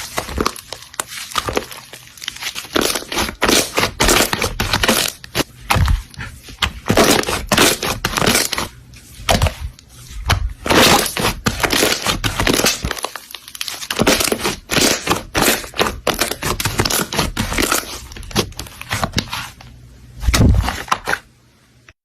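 Slime being squeezed and pressed by hand, with dense rapid crackling and popping that comes in flurries. It cuts off just before the end.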